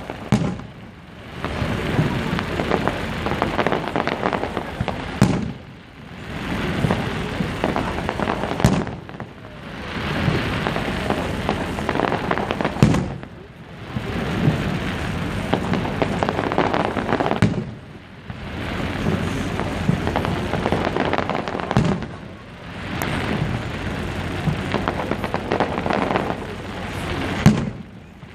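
Fireworks display: a dense run of bangs and crackles, easing off briefly about every four to five seconds and then building again.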